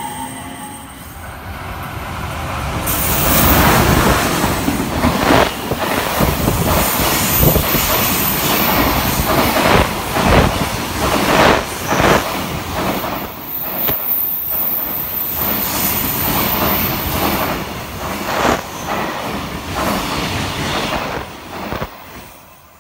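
Freight train of container wagons running through at speed: a steady rolling clatter of wheels over rail joints, with a high wheel squeal at times. The noise builds over the first few seconds and dies away near the end.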